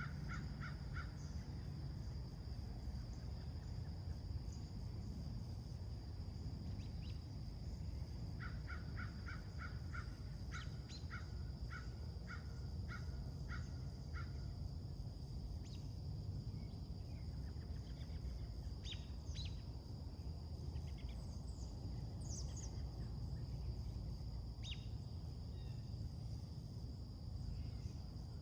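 A bird calling in a rapid series of short, evenly spaced notes, once at the very start and again from about 8 to 14 seconds in, the second run slowing toward its end. Scattered short high chirps of other birds follow in the second half, over a steady high drone and a low background rumble.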